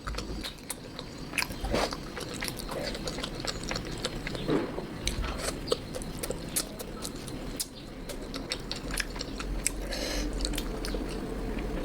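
Close-miked eating sounds: chewing and biting of curry and rice with many small wet mouth clicks and smacks.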